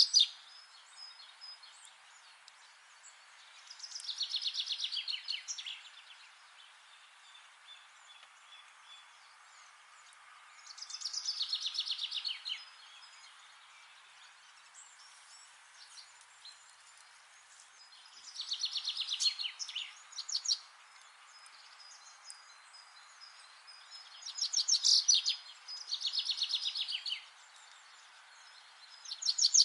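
Songbird singing a short song of rapid notes that fall in pitch, about two seconds long, repeated roughly every six seconds, over a faint steady hiss with a few thin whistles from other birds between songs.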